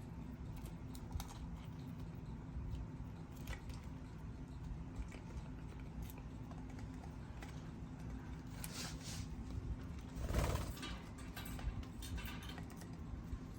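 Pet birds pecking and moving about: irregular light clicks and taps over a steady low hum, with a louder scuffle about ten seconds in.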